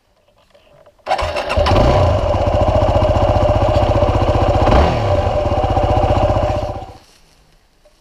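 Dirt bike engine starting about a second in and running loud and steady for several seconds, its pitch dipping briefly partway through, then cutting off suddenly near the end.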